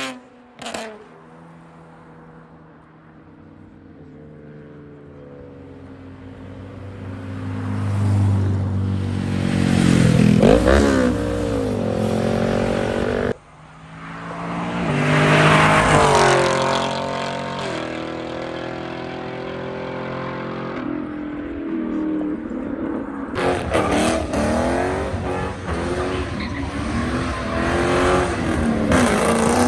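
Cars accelerating past one after another, their engines revving up and swelling as each passes. The sound changes abruptly twice between separate pass-bys.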